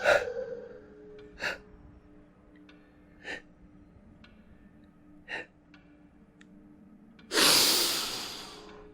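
A woman's acted gasps for breath: three short, sharp gasps about two seconds apart, then one long, loud gasping breath near the end. Under them is a faint, steady musical drone.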